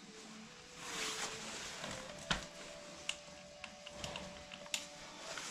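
Scattered light clicks of a torque wrench being set to 40 foot-pounds and handled, over a faint hiss.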